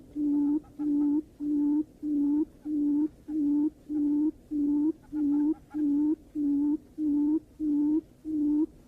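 Barred buttonquail call: a steady series of low, even hoots, about two a second. It is a lure call meant to bring the birds in.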